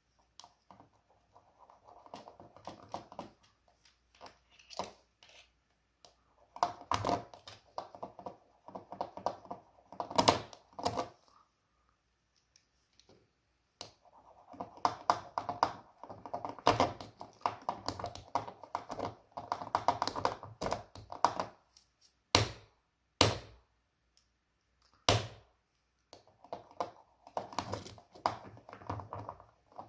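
Clicking, tapping and scraping of small hard parts being handled and worked on a hard surface, in irregular clusters, with three sharp separate taps about two-thirds of the way through.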